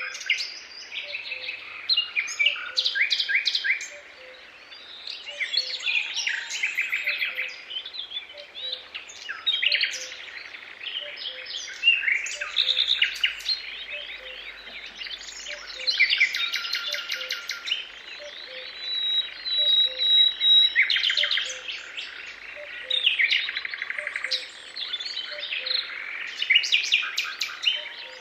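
Several songbirds singing at once, overlapping chirps and fast trills. A faint, regular low chirp repeats about twice a second underneath.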